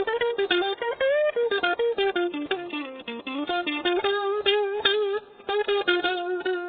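Cheap maple-body electric guitar playing a single-note melody, with frequent string bends that slide notes up and down.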